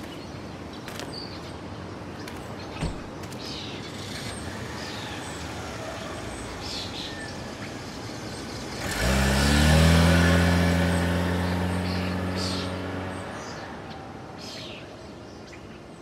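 Car engine sounds loudly about nine seconds in, holding a steady note for several seconds and then fading, over street ambience with birds chirping. A single sharp click comes a few seconds in.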